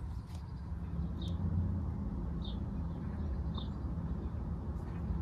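A bird chirping: four short, high chirps about a second apart, over a steady low hum.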